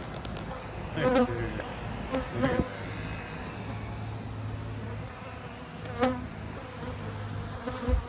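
Many Africanized honey bees buzzing in a steady hum, remnant foragers back from the field and milling around their removed hive's entrance. The buzz swells louder briefly three times, about a second in, around two and a half seconds and at six seconds.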